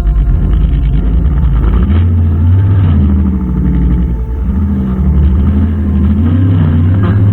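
Brushcutter's small two-stroke engine running at working speed. Its pitch wavers, dipping a little past the middle and picking up again.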